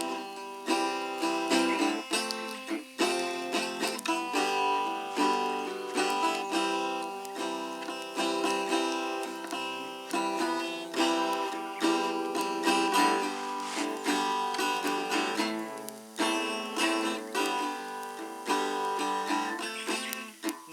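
Acoustic guitar strummed, with picked notes, playing an instrumental passage between sung verses.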